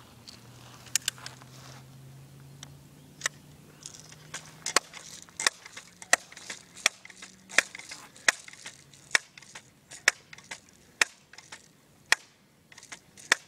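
Crosman M4 air gun being worked: a run of sharp clicks, a few scattered at first, then a steady series about every two-thirds of a second.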